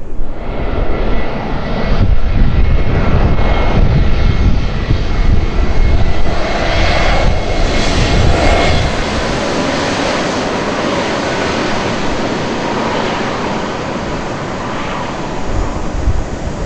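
Airbus A320neo jet airliner's engines passing close on its landing approach: a loud rush with steady whining tones, loudest in the first half, then easing into a steadier rush.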